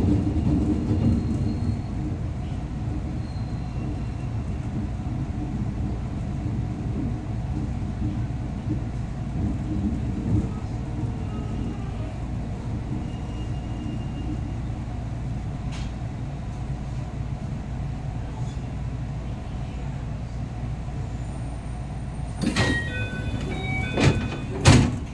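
Cabin of a JR West 221 series electric train: the steady low rumble of the train running slowly in and coming to a stop. Near the end there are a few short beeps, then the sliding doors open with a loud thump.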